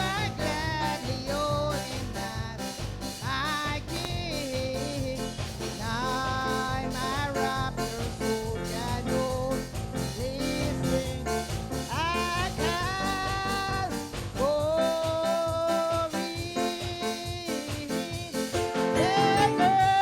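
Church worship music: a band playing under a held, sliding lead melody.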